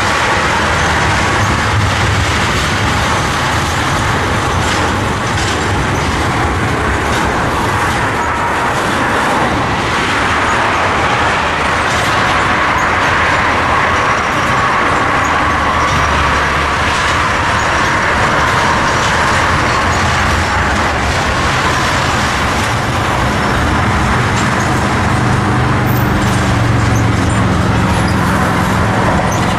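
Loaded oil train's tank cars rolling past at close range: a steady rumble and rush of steel wheels on rail that runs unbroken.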